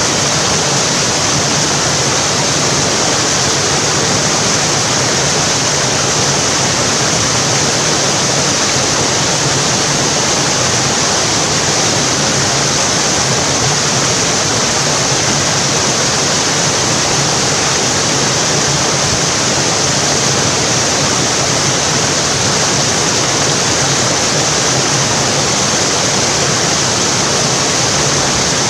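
Water cascading over rocks in a mountain stream: a steady, loud rush without a break.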